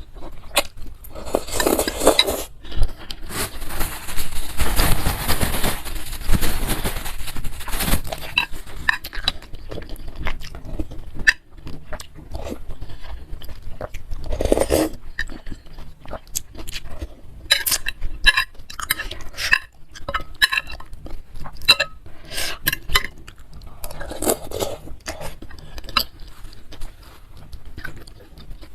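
Close-miked eating of bakso meatball soup with noodles: a spoon clinking against the bowl and chewing, with a long hissing stretch a few seconds in, then many short clicks and clinks.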